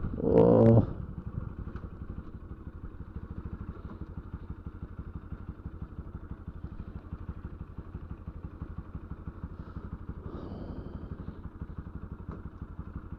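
Motorcycle engine running steadily while being ridden, a fast even stream of firing pulses.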